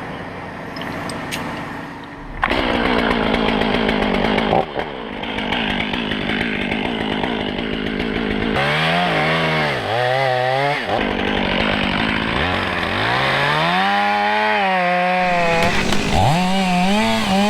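Two-stroke chainsaw: it jumps to full throttle about two and a half seconds in and runs hard, as in a cut through the tree's trunk. In the second half it revs up and down over and over.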